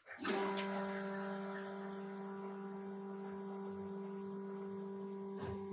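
A steady electrical or machine hum starts abruptly just after the beginning and holds one even, low pitch with overtones.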